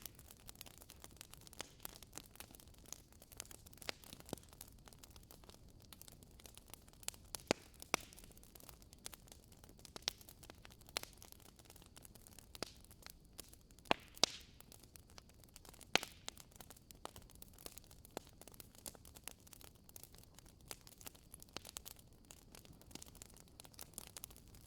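Wood fire crackling in a fireplace: irregular sharp pops and snaps, a few louder ones about halfway through, over a faint steady hiss.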